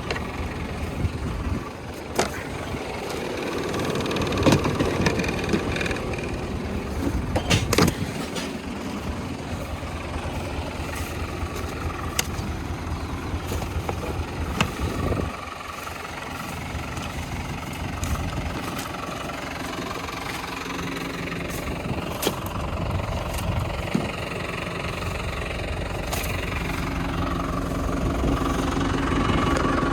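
Tractor engine running under steady load while pulling a drip-tape laying machine, with scattered sharp clicks and knocks from the machinery. The engine grows somewhat louder near the end.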